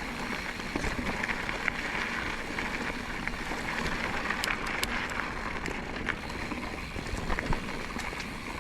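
Mountain bike rolling over a rocky trail: a steady crunch of tyres on gravel and rock, with scattered clicks and rattles from the bike.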